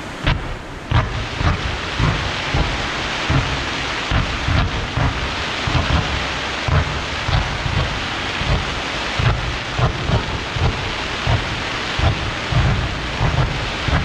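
Aerial fireworks going off in rapid succession, with a dull boom about twice a second over a continuous crackling hiss. The barrage starts abruptly at the beginning.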